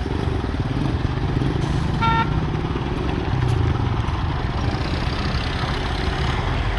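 A vehicle engine running steadily close by in stalled road traffic, with one short horn beep about two seconds in.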